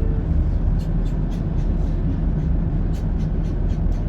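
Class 170 Turbostar diesel multiple unit running along the line, heard from inside the carriage: a steady low rumble of engine and wheels, with light ticks now and then.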